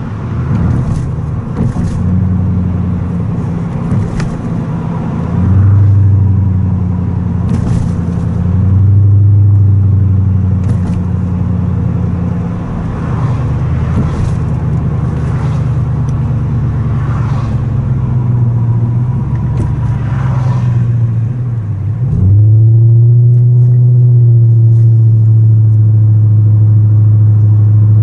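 Toyota Crown Majesta's 4.3 L V8 (3UZ-FE) running through a fully straight exhaust, a loud deep drone that shifts in pitch with the throttle and echoes in a tunnel. About 22 seconds in, the note dips sharply, then comes back louder and holds a steady, higher drone.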